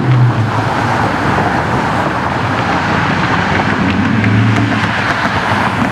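A car driving, with steady engine and road noise and a low hum.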